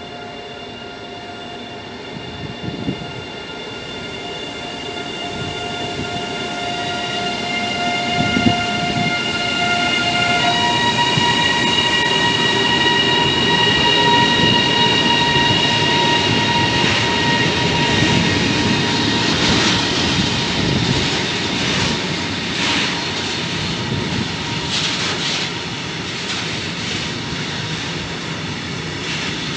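Siemens Vectron electric locomotive passing at the head of an intermodal container freight train. A steady whine of several tones jumps up in pitch about ten seconds in and is loudest as the locomotive goes by. The container wagons then roll past with a rapid clatter of wheels over the rail joints.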